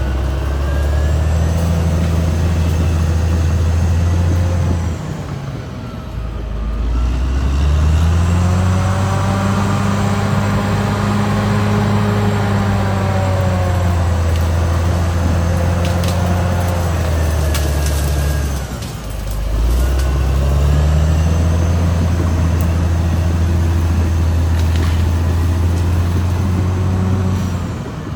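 Caterpillar D6R XL bulldozer's diesel engine running hard under load. Its revs and loudness sag twice, around five to seven seconds in and again near nineteen seconds, then climb back up.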